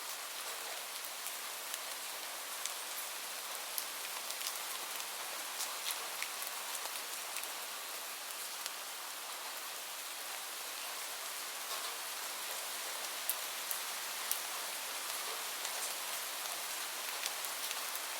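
Steady rain falling, an even hiss with scattered individual drops ticking sharply throughout.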